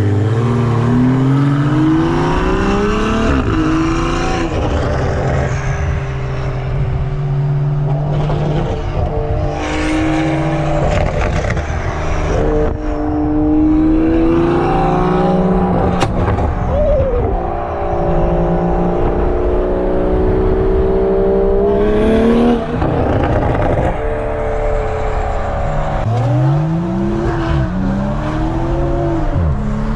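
Tuned Toyota GR Supra's turbocharged 3.0-litre B58 inline-six, with a catless downpipe and straight-piped exhaust, pulling hard. Its pitch climbs and then drops at each of several gear changes, and near the end the revs rise and fall quickly a few times.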